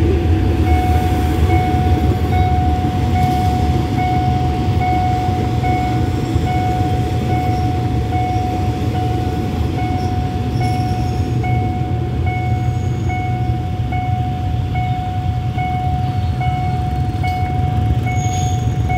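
Diesel-hauled passenger train rumbling steadily over a level crossing while the crossing's warning signal rings in an even repeating pattern, about one and a half strokes a second.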